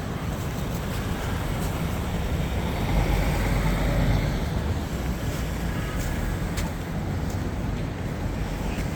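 Steady low rumble of street traffic, swelling a little about three to four seconds in.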